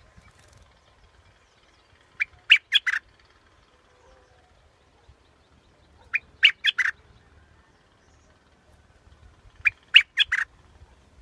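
Bulbul singing: three short phrases, each a quick run of about five notes, repeated roughly every four seconds.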